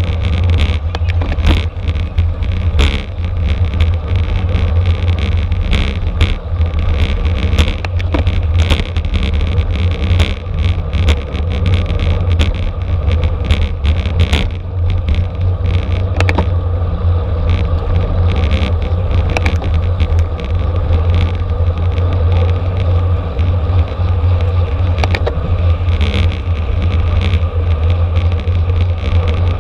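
Wind buffeting the microphone of a camera riding along in a road bicycle race: a loud, steady low rush with scattered short clicks and rattles.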